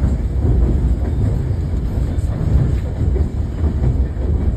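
Passenger coach of the White Pass & Yukon Route railway running along the track, heard from inside the car: a steady low rumble of wheels on rail.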